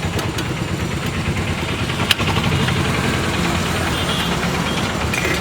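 A vehicle engine running steadily at idle, a low even rumble, with one sharp click about two seconds in.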